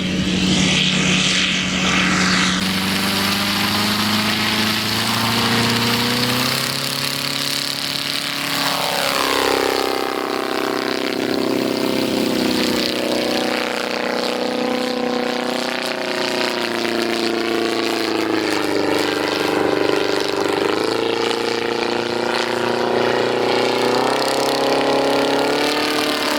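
Propeller aircraft engine running, its drone rising and falling in pitch as the power or the plane's distance changes.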